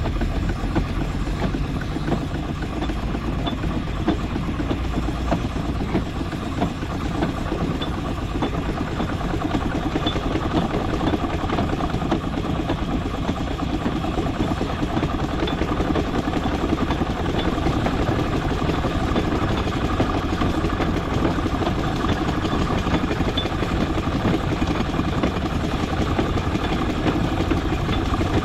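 Steam traction engine running while being driven, a steady dense mechanical clatter over a low rumble.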